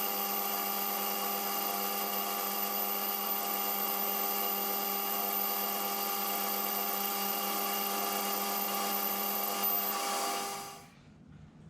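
Metal lathe running with a steady whine while a small boring bar bores out a 4140 steel collet. About ten and a half seconds in, the lathe is switched off and the sound dies away quickly.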